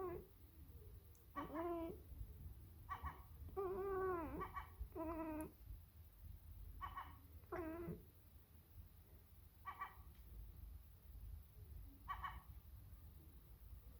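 Sacred Birman cat meowing and chattering in a run of short calls, several sliding down in pitch, with gaps of a second or two between them.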